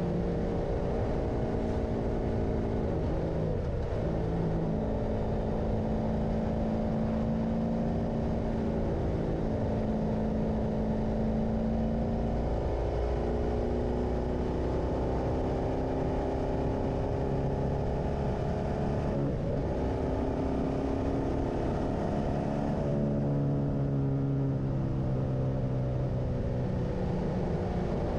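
Motorcycle engine running while riding, its note climbing slowly and dropping or shifting every few seconds as the revs change, over a steady rush of wind and road noise.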